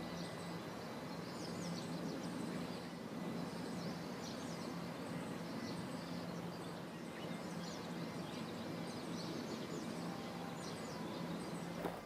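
Small birds chirping, short high calls scattered throughout, over a steady background hiss and a faint low hum.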